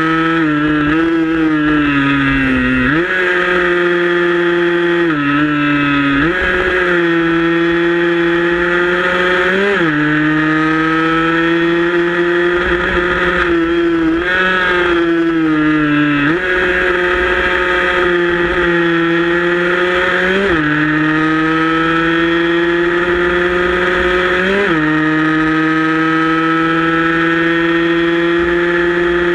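115 cc motorcycle engine running hard at high revs through a racing lap, heard from on board. The note holds steady, then jumps or dips abruptly every few seconds as the rider changes gear.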